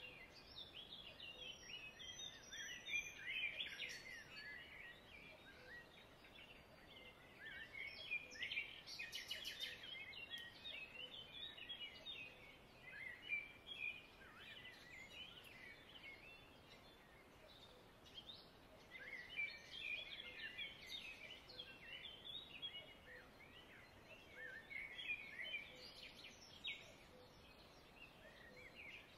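Faint birds chirping and twittering in bouts of rapid short calls every few seconds, with a few soft clicks.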